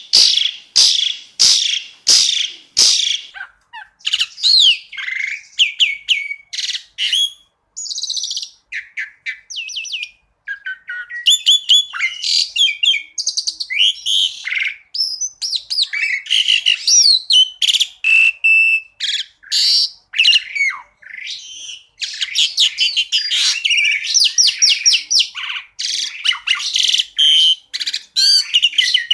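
Asian pied starling (jalak suren) singing a long, varied song: a run of loud, sharp repeated notes at the start, then mixed whistles, trills and chatter, and a dense run of rapid notes over the last several seconds.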